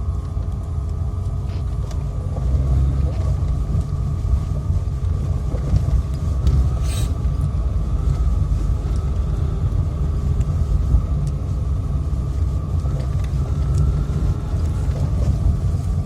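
Steady low rumble of a motor vehicle running, with a faint steady tone and a short hiss about seven seconds in.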